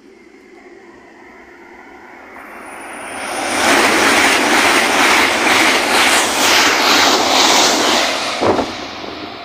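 An LNER Azuma (Hitachi Class 800-series) high-speed train runs through the station at speed without stopping. Its rushing noise builds up and stays loud as the coaches pass, beating steadily as each bogie goes by. A brief thump comes near the end as the rear of the train passes.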